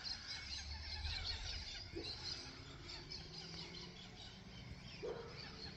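Faint outdoor background of many small birds chirping and squeaking, with a low, steady hum beneath.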